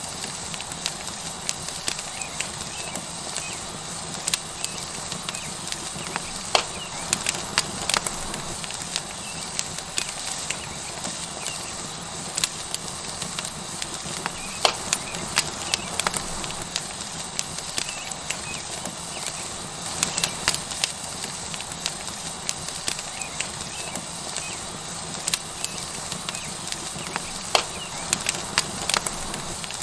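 Tomahawk steak sizzling on a hot rock over a wood fire: a steady hiss with frequent sharp crackles and pops scattered throughout.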